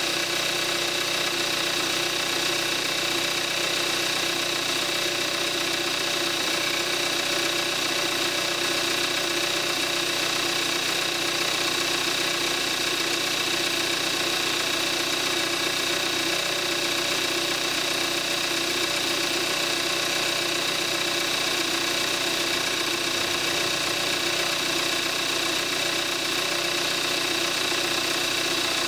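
A 2014 Kia Forte5's 2.0 GDI direct-injection inline-four engine idling steadily at about 41,000 miles, running on Amsoil 5W-30 oil; this is the normal running sound of this engine at that mileage.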